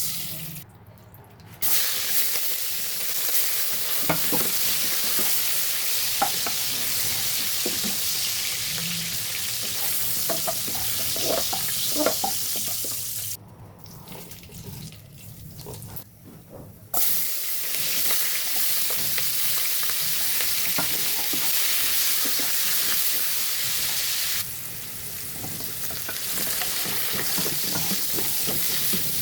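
Food sizzling as it fries in hot oil in a pan, stirred with a metal spatula that clinks against the pan now and then. The sizzle drops away twice and eases off a little near the end.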